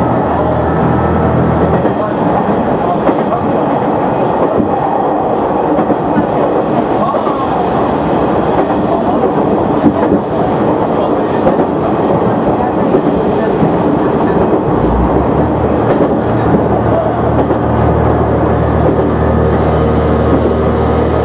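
KiHa 100 diesel railcar running along the line: a steady engine drone and the rumble and clatter of wheels on track. The engine note fades into the running noise partway through and comes back near the end, with a thin high squeal appearing about halfway.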